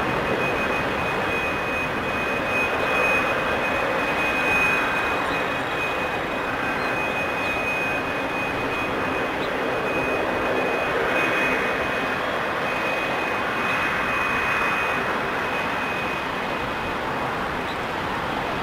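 Jet airliner engines running steadily, a high turbine whine over a broad rush; the whine stops near the end.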